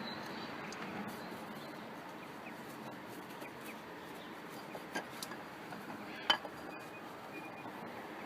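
A few light metallic clicks and clinks, like tools or parts knocking on metal, with one sharper clink about six seconds in, over a steady background hiss.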